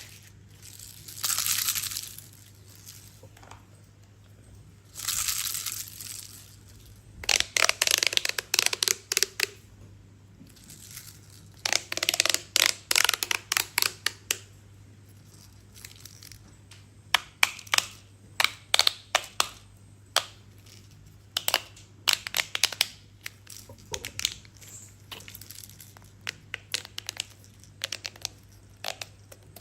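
Crinkling and clicking handling noises: two short rustling bursts near the start, then runs of sharp clicks and crackles that come in clusters and thin out toward the end.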